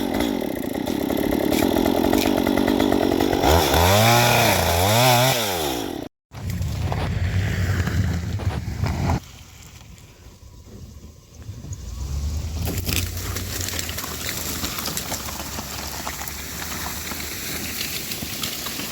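Chainsaw running, revved up and down a few times about four to five seconds in. After a brief cut it runs on, dropping quieter for a few seconds before settling to a steady level.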